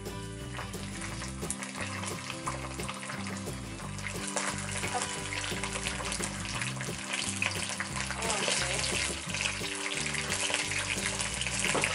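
Hot oil sizzling in a wok with garlic and dried chillies as oyster sauce is poured in; the crackle grows denser and louder from about four seconds in. Background music plays underneath.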